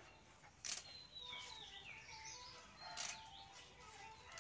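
Small birds chirping faintly, with two short sharp snaps or clicks, one under a second in and one about three seconds in.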